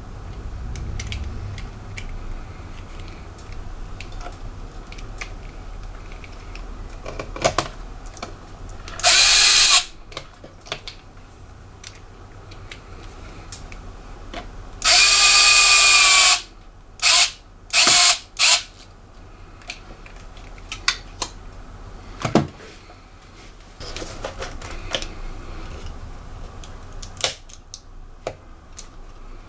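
Small electric screwdriver running in short bursts: one run of about a second, a longer run of about a second and a half, then three quick blips, working the small screws of a laptop. Small clicks and knocks of parts and tools being handled come between the runs.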